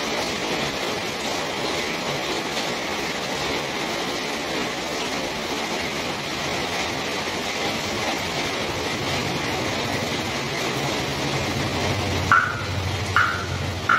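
Steady rain falling on a garden and terrace, an even hiss. Near the end a low hum comes in and a run of short, repeated tones starts, a little more than one a second.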